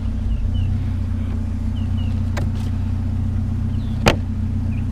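A vehicle engine idling steadily with a low hum. About four seconds in there is one sharp knock, and a fainter click comes a little before it.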